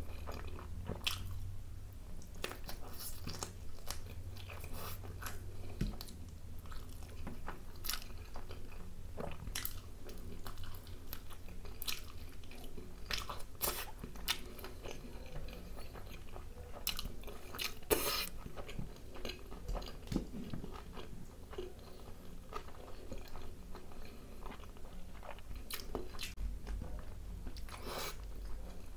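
Close-up chewing and biting of curry-coated chicken and naan, with many small wet mouth clicks throughout and one louder click about 18 seconds in.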